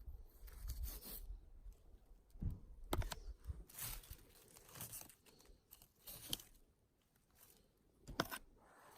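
Scattered crackling and rustling of forest litter and twigs, irregular short crackles with a sharper snap about 8 seconds in.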